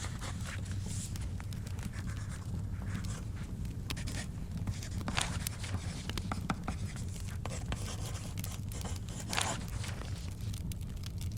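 Wood fire crackling in a fireplace, with many small sharp pops over a steady low rumble. Book pages are turned now and then, with the clearest paper rustles about five seconds in and again near the end.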